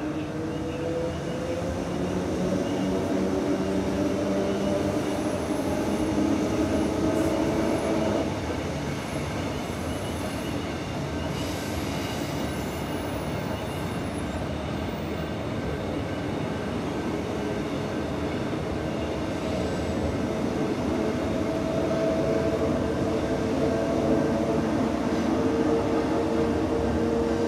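Electric suburban multiple-unit trains passing through the station: a steady run of wheel-on-rail noise with the traction motors' whine, which rises in pitch over the first several seconds and comes back strongly again near the end.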